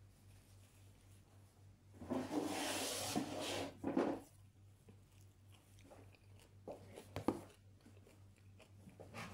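A person eating close to the microphone: about two seconds in, two seconds of loud crunchy biting and chewing, then a few soft mouth clicks and smacks, over a low steady hum.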